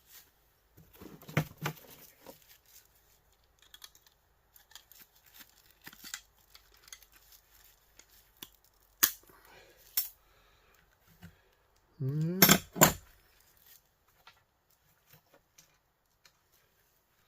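Hand tools and small metal parts clicking and clinking as an electric heater is taken apart. The clicks come at scattered moments, and the loudest pair, about twelve and a half seconds in, follows a short rising squeak.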